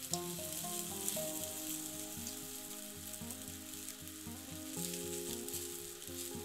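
Chicken sizzling over a charcoal grill, a steady hiss with scattered small pops, under background music.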